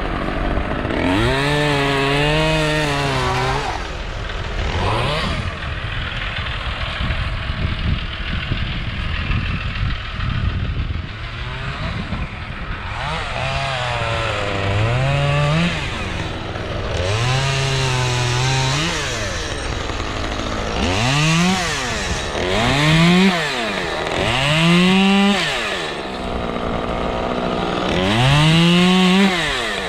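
Chainsaw cutting limbs, revved in about seven bursts: each time the engine note climbs quickly, holds briefly and drops back to idle. A steady low engine rumble runs beneath.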